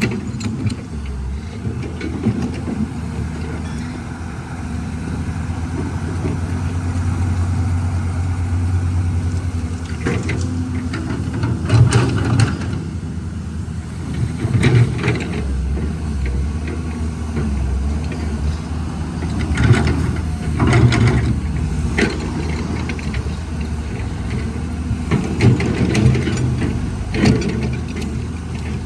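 Caterpillar 320 excavator's diesel engine running steadily, its hum changing in strength as the machine works. Several short, sharp knocks and clatters are scattered through it.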